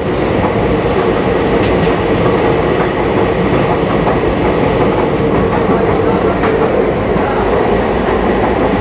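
Steady rumble of a moving passenger train, with wheels running on the rails.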